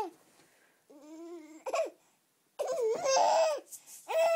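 Dog making drawn-out howling whines. A faint rising whine comes about a second in, a louder wavering howl follows near the three-second mark, and another held howl starts near the end.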